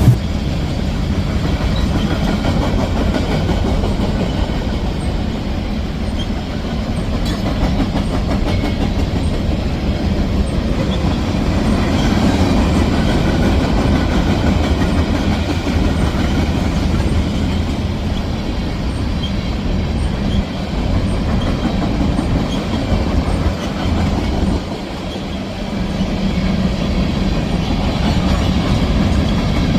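CSX freight train rolling past with steady rail noise, which dips briefly about two-thirds of the way through.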